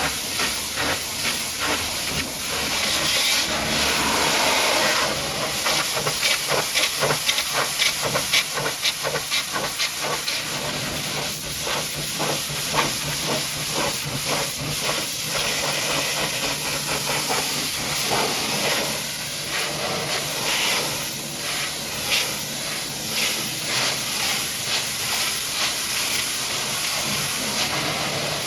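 High-pressure water jet from a pressure washer spraying onto a truck, a steady hiss broken by rapid, uneven spattering as the jet moves over the surface.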